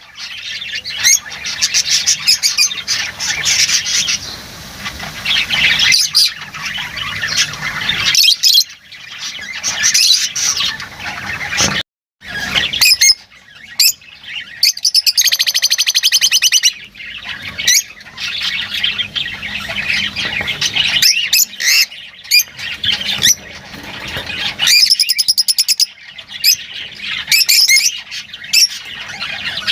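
Lovebirds chattering: a dense, rapid stream of high chirps and squawks, broken by a brief sudden silence about twelve seconds in.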